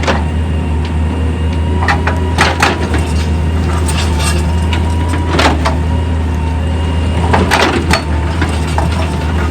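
Heavy machinery running steadily with a low engine drone and a thin whine, broken by sharp clanks and knocks of rock or steel about 2, 2.5, 4, 5.5 and 7.5 seconds in.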